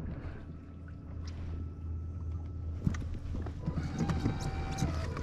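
A few faint knocks and clicks of handling on a fishing kayak over a low steady rumble.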